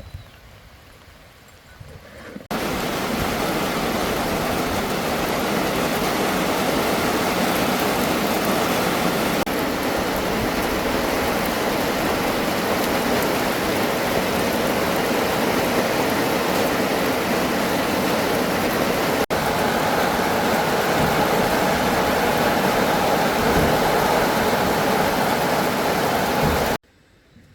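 Loud, steady rush of flowing water. It starts abruptly a couple of seconds in and cuts off abruptly near the end.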